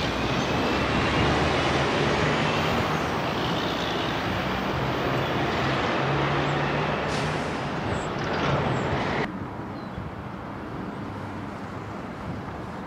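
Freight train running past on the rails: steady loud wheel and rail noise that cuts off abruptly about nine seconds in, leaving a much quieter steady outdoor background.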